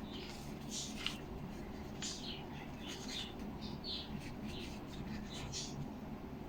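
Short, irregular scratchy rubs of a glue stick on paper and cardboard model parts, over a low steady hum.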